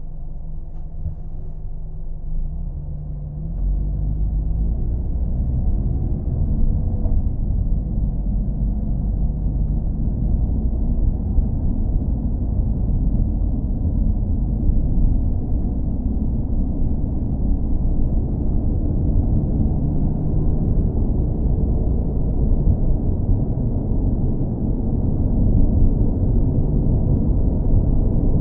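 Car driving, a steady low engine and road rumble. It grows louder about four seconds in as the engine pitch rises, then runs on evenly.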